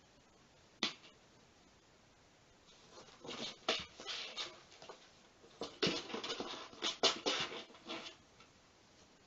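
Cats scuffling and scratching: two spells of scratchy rustling with sharp clicks, one about three seconds in and a longer one about six seconds in, after a single click near the start.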